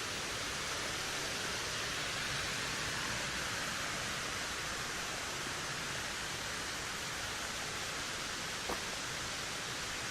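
Wind blowing steadily through forest trees: an even rushing noise that swells slightly a few seconds in, with one faint short click near the end.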